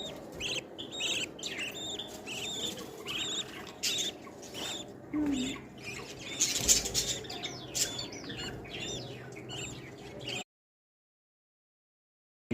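Nestling birds chirping: a rapid, continuous run of short high chirps that stops abruptly about two seconds before the end, leaving total silence.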